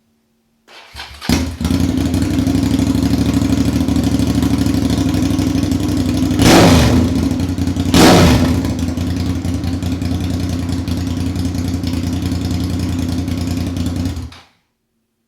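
Suzuki SV650S 90-degree V-twin motorcycle engine being started, catching about a second in and idling, revved in two quick throttle blips around the middle, then switched off suddenly near the end.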